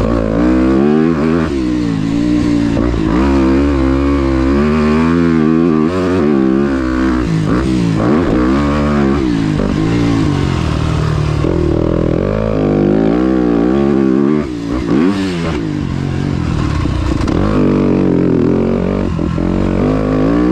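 Motocross dirt bike engine revving hard while being ridden on the track, its pitch climbing and dropping again and again with throttle and gear changes. About two-thirds of the way through it briefly drops off the throttle.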